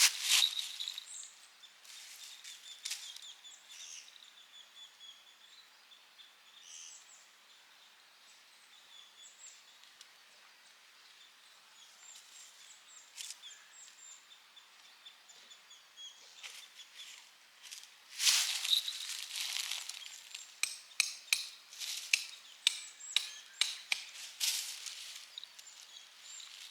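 Sharp knocks or taps outdoors: a few early on, then a busy run from about two-thirds of the way in that settles to about two a second, with a faint high ringing tone in the first few seconds.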